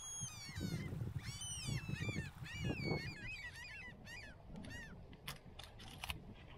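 Birds calling: a rapid series of high, down-slurred calls, some overlapping, over a low rumble of wind. A few sharp clicks follow near the end.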